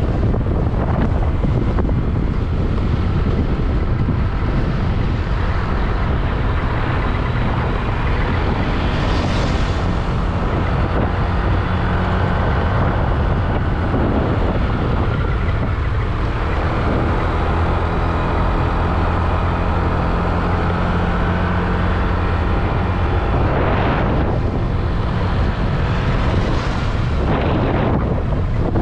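Honda Click 125i scooter under way: steady wind rush on the microphone over the drone of its engine, with a few brief whooshes along the way.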